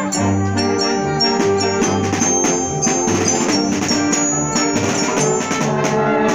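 A symphonic wind band playing, with brass sustaining chords over moving lines and percussion accents.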